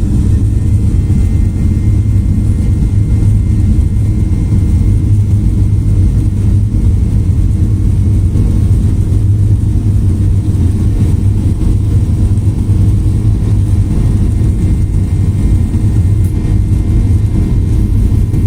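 Boeing 737-800's CFM56 jet engines running at takeoff thrust, heard inside the cabin as a loud, steady, deep rumble with a faint whine above it.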